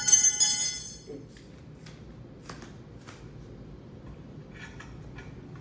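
Metal parts of a bird feeder station clink together and ring for about a second, then a few light clicks and taps as the pieces are handled and hooked together.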